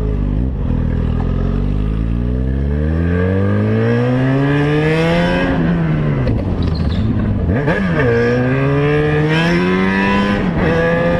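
Motorcycle engine accelerating through the gears: the pitch climbs steadily, drops at each upshift about five and a half, seven and a half and ten and a half seconds in, then holds steady.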